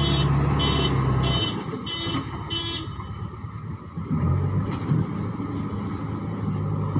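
A heavy vehicle's diesel engine running, with a reversing alarm beeping a little under twice a second; the beeps stop about three seconds in. The engine's low note drops off about a second and a half in and comes back about four seconds in.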